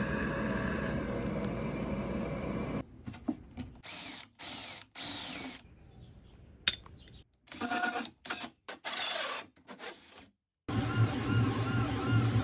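Machine and tool noise in short, abruptly cut segments. About eleven seconds in, a 3D printer starts running: its stepper motors give repeated short rising-and-falling whines, a couple a second, over a steady hum.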